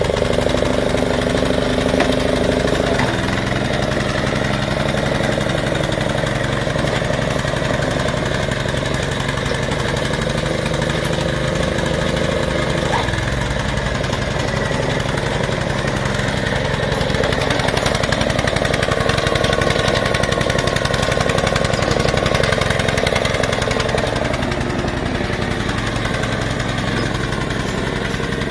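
Small old Honda engine on a walk-behind multi-purpose machine, running steadily throughout, with a slight shift in its note about three seconds in and a little louder for a while past the middle.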